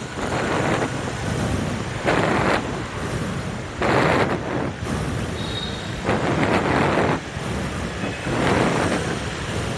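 City street traffic noise, vehicles passing, swelling and fading every couple of seconds.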